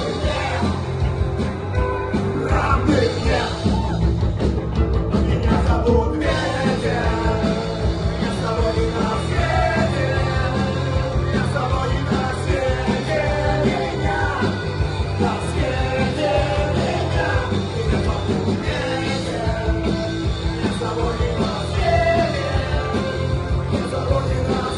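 A rock song played by a band, with a singer over a steady, driving accompaniment.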